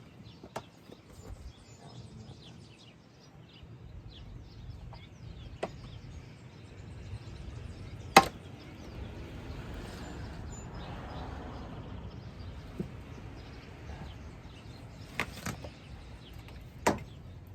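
Scattered clinks and knocks of hand tools and metal car parts being handled during work on a car, with one sharp strike about eight seconds in the loudest and another near the end.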